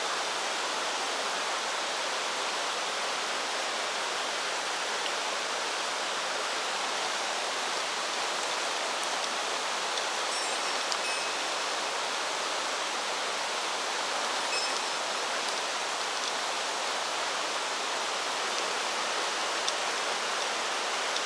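Mountain stream water rushing over rocks, a steady even wash of sound.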